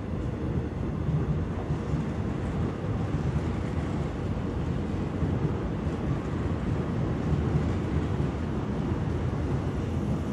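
Line 1 electric commuter train pulling out of the station and running past along the platform: a steady rumble of wheels on the rails and the passing cars.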